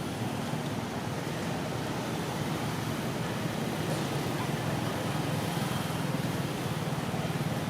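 Steady low rumble and hiss of background noise, with no distinct events standing out.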